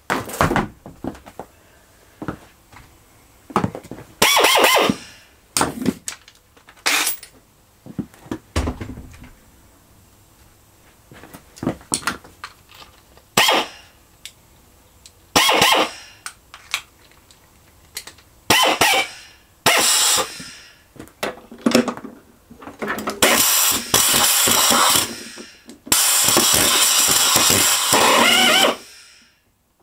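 Air drill run off a compressor in many short bursts, then two longer runs of a few seconds near the end, trying to turn over a tight Homelite V35 lawnmower engine. No engine running is heard between the bursts.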